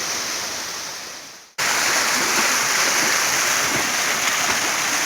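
Rushing water of a waterfall, a steady hiss-like roar. It fades away over the first second and a half, then cuts back in suddenly, louder, and holds steady.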